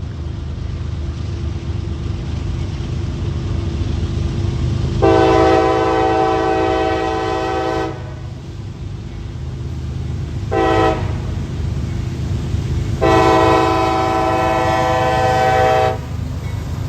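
CSX freight locomotive's multi-tone air horn sounding a long blast, a short blast and another long blast over the steady low rumble of the train.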